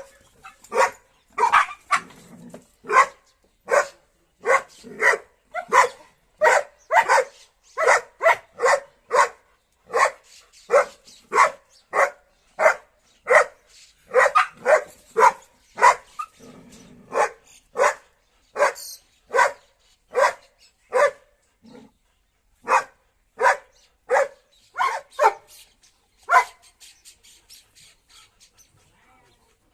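A dog barking excitedly over and over, in short separate barks about one or two a second, which stop near the end.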